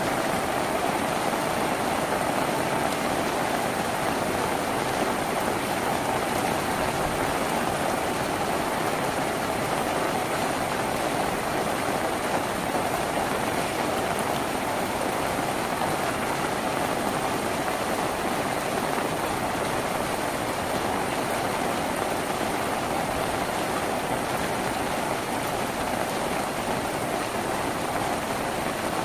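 Steady rain drumming on a tin roof, an even unbroken patter.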